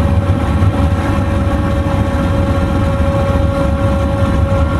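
Twin-turbo 472 Mopar V8 of a Valiant Charger running steadily at cruise, a deep drone with road noise and a steady high tone held over it.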